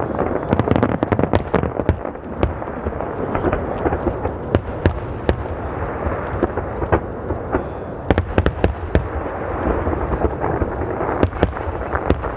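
Fireworks display: a dense run of bangs and crackling, with many sharp reports overlapping one another and echoing.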